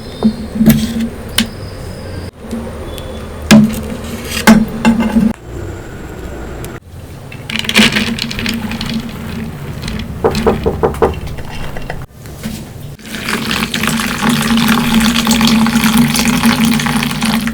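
Water and other liquid sounds, like pouring or a running tap, in several short clips that cut off suddenly, with sharp clicks and knocks. A dense, steady stretch of liquid noise begins about two-thirds of the way in.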